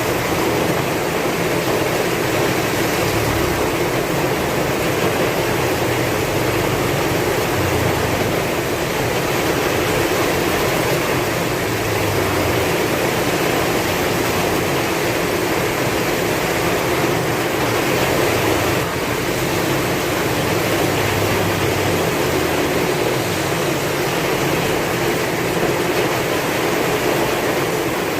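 Heavy rain falling steadily with strong wind, a constant dense hiss with a shifting low rumble underneath.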